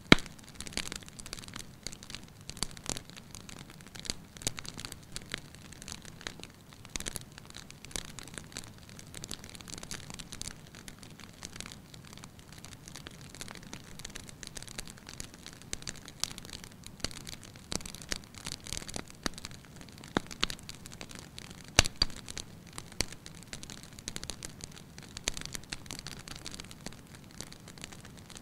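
Wood fire crackling in a fireplace: irregular sharp pops and snaps over a soft steady hiss, with a louder pop right at the start and another about three quarters of the way through.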